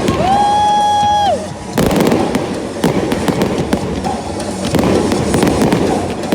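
Fireworks going off, a run of bangs and crackles. Near the start there is a held, whistle-like pitched tone about a second long.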